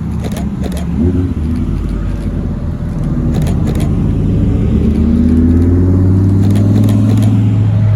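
Car engines running at low speed as a group of supercars arrives, a deep steady engine note that rises slightly in pitch and grows louder in the second half as a car draws near.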